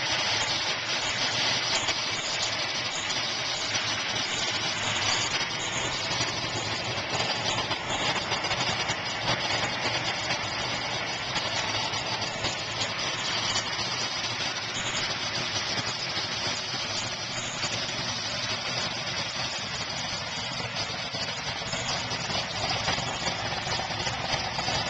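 A 1970 Dodge Challenger R/T's 440 big-block V8 idling steadily.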